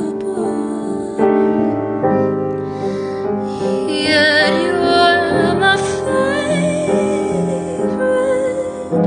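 A woman singing over piano accompaniment, holding notes with a wide wavering vibrato about four to six seconds in.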